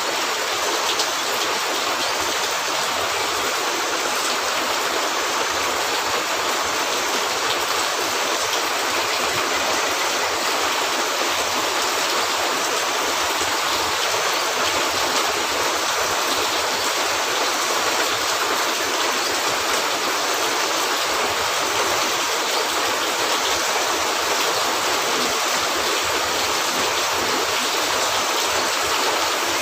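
Steady rain falling, a dense, even hiss of water that doesn't change in level.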